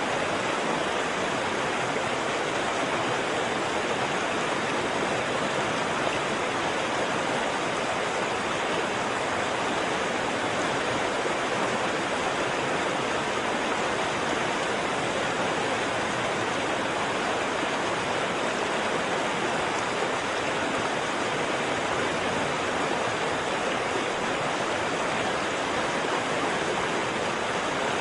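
Waterfall: a steady, dense rush of falling water with no breaks or changes.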